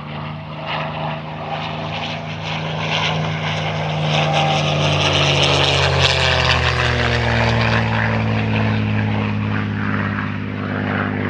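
Loud, powerful piston engines running past, a steady drone whose pitch slides downward about halfway through as the source goes by.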